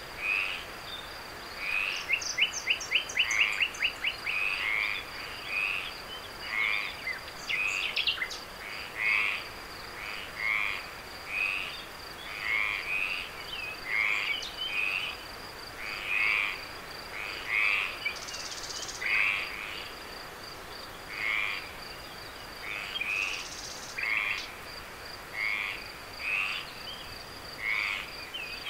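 Frogs croaking in short repeated calls, about one a second, with a quick rattling run of calls about two seconds in. A steady, high, finely pulsed insect trill runs behind them.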